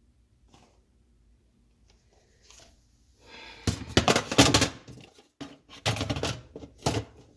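Rattling and scraping of dishwasher parts being handled: a few faint clicks, then loud clattering bursts from about three seconds in.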